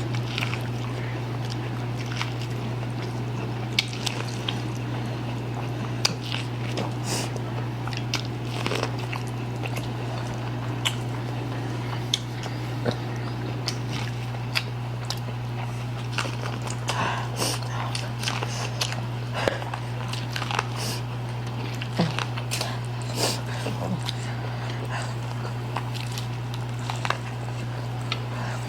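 Close-miked eating: chewing and biting of Buldak spicy noodles and suya, with scattered wet smacks and clicks, over a steady low hum.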